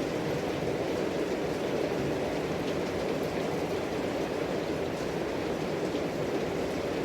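Steady, even background noise, with no distinct events.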